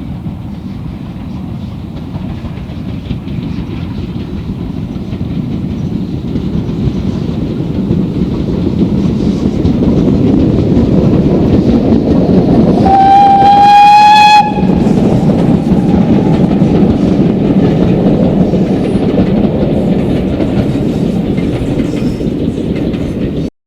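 A steam locomotive and its train approach and pass, the running noise growing louder towards the middle. One whistle blast of about a second and a half sounds just past halfway. The loud running noise carries on, then cuts off suddenly near the end.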